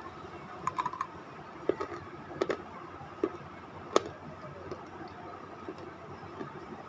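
Crunching of a hard white piece being chewed in the mouth: a quick cluster of crisp cracks about a second in, then single cracks every half second to a second, the loudest about four seconds in, softening to faint chews near the end.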